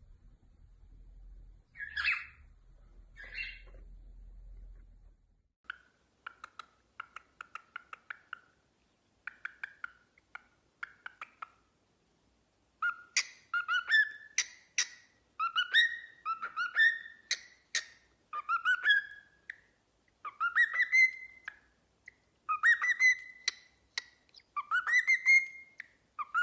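Pet parrot vocalising: two short calls, then runs of quick clicks and short notes, then a string of rising whistles about one a second, each starting with a click.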